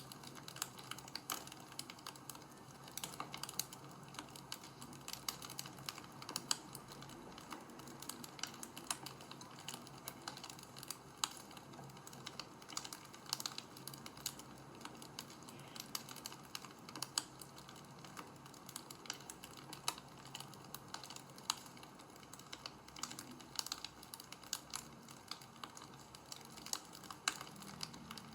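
Wood fire crackling, with dense, irregular snaps and pops over a faint low hum.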